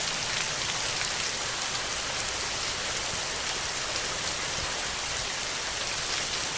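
Steady rain falling, an even hiss strongest in the treble with faint scattered drop ticks.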